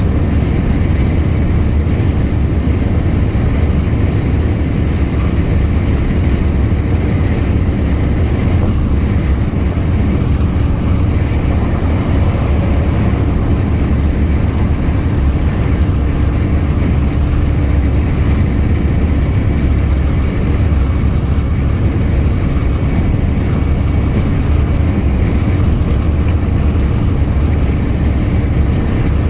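Heavy truck driving at a steady speed: a constant low engine drone mixed with road noise, unchanging throughout.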